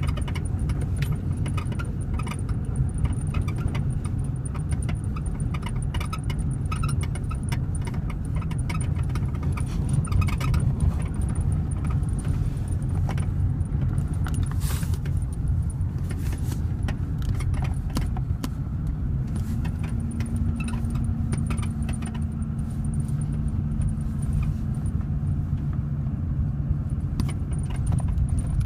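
2011 Ford F-350 Super Duty's 6.7-litre Power Stroke V8 diesel idling, with many short clicks and squeaks in the cab over it. A low steady hum comes in about two-thirds of the way through and drops out near the end.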